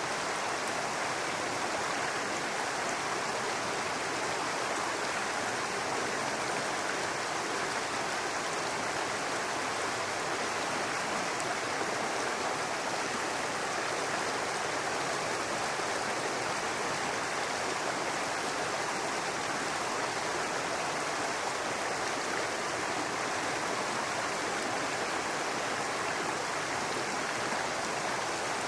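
Babbling brook: water running steadily over rocks in a shallow stream, an even rushing and burbling that does not change.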